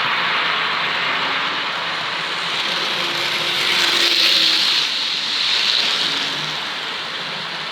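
Bachmann OO gauge BR Standard Class 5MT model locomotive running on its track: a steady whirr of the electric motor and wheels on the rails. It grows louder to a peak about four seconds in, again near six seconds, then fades as it runs away. Its motor is worn and near failure.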